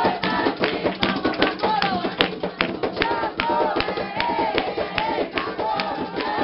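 Voices singing a repeated chant for Xangô in a ritual circle, over sharp rhythmic percussion strokes several times a second.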